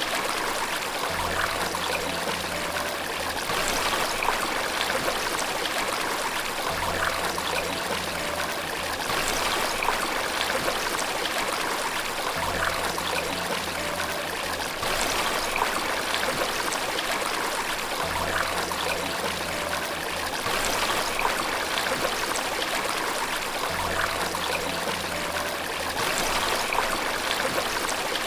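Steady flowing water, like a stream or small waterfall, making an even rushing hiss. Under it a soft low tone comes back about every six seconds and lasts about two seconds each time.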